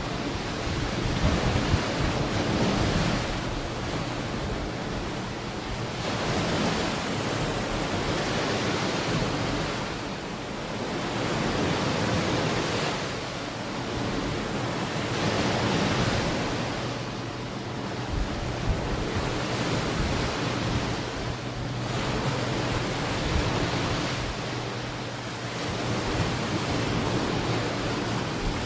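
Ocean waves washing onto a beach, the surf swelling and easing every few seconds. Some wind is on the microphone.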